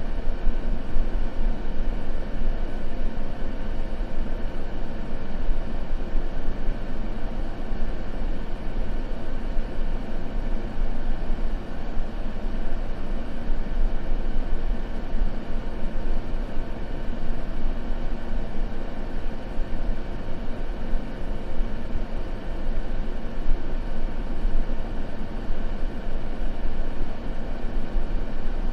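Continuous ambient noise track of the kind sold as white noise for sleep, steady and unbroken, with a deep, rumbling low end.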